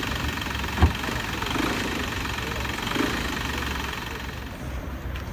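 Car engine idling with a steady low rumble, with a single thump about a second in.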